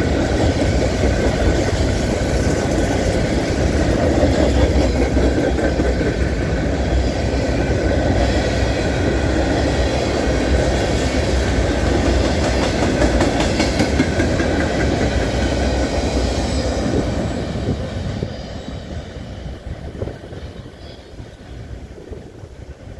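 Freight train of covered hopper cars rolling past close by: a steady loud rumble and clatter of steel wheels on the rails. The noise fades off over the last few seconds as the end of the train moves away.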